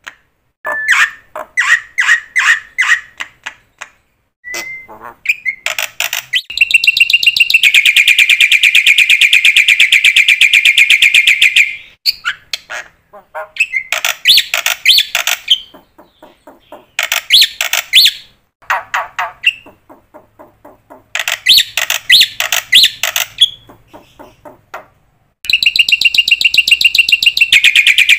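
A bird calling in fast runs of repeated harsh, buzzy notes. The longest run lasts about five seconds, and the runs come with short pauses between them.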